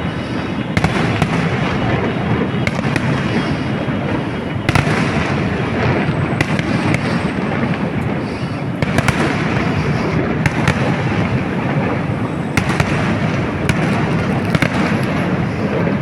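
Fireworks going off continuously: a dense, unbroken crackle with many sharp bangs and pops every second or so.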